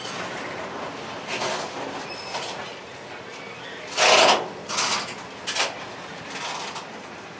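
Freight train wagons rolling on a curving track, a steady running noise broken by several short, loud bursts, the loudest about four seconds in.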